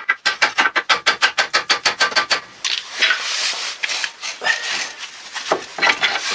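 Worn-out wheel hub bearing from a Toyota Corolla being turned by hand. For the first couple of seconds it grinds with a rapid rough clicking, about eight or nine a second, then it goes on as a rasping rub. The bearing is dead.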